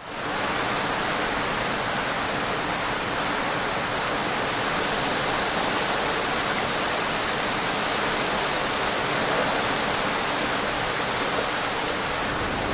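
Steady rain falling, an even hiss that fades in at the very start.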